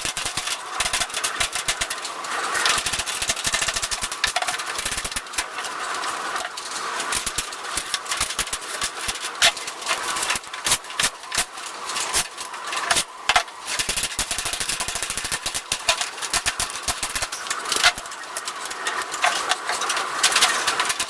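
Power tool running in stop-start bursts with a dense, rapid rattle.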